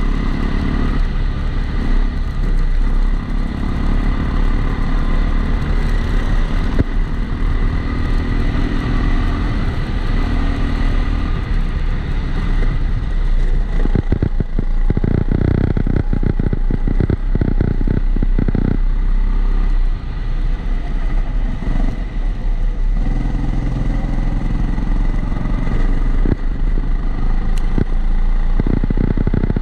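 Kart engine heard from on board, its pitch rising and falling with the throttle through corners, muffled by a camera housing that adds a steady, regular background whine. About halfway through there is a few-second stretch of dense clattering and juddering.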